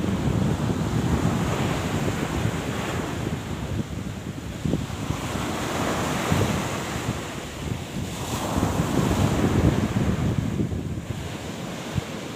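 Wind rumbling on the microphone together with the wash of sea surf, swelling and easing every few seconds.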